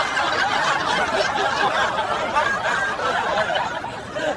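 Laughter running on without words, easing off slightly near the end.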